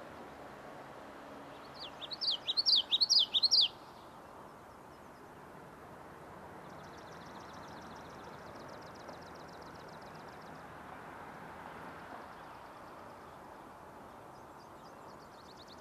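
Birds singing: a loud run of quick rising-and-falling chirps about two seconds in, then fainter rapid trills twice later on, over a steady background hum of street ambience.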